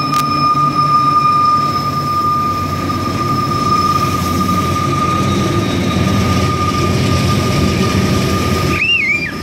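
Freight train of gondola cars rolling past: a steady rumble of wheels on the rails, with one high, steady wheel squeal that fades away over the first seven seconds or so.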